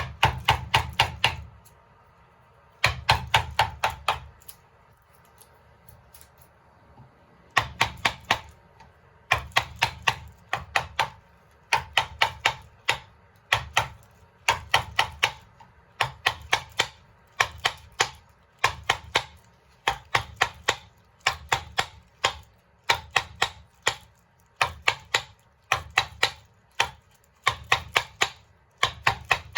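Mallet tapping a carving chisel into wood in quick runs of about five sharp strikes, each run a second or so apart, with a longer pause a few seconds in.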